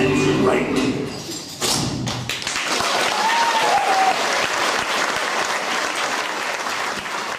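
Performance music ends on a final sharp hit, then a theatre audience applauds steadily.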